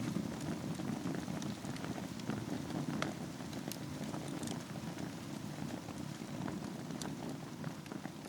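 Wood fire burning on a bed of embers in a fireplace: a steady low rumble of flame with scattered sharp crackles and pops throughout.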